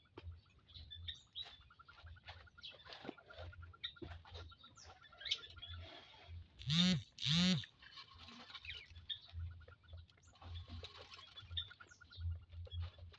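Quails chirping and peeping, with a fast twittering trill coming and going, and two loud calls in quick succession about halfway through.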